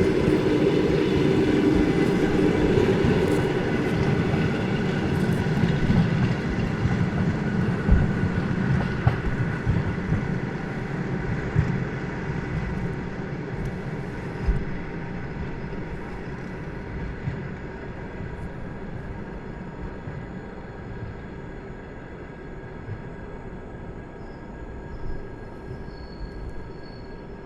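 Passenger train hauled by an EP2K electric locomotive rolling along the track and fading steadily into the distance, with occasional single wheel knocks.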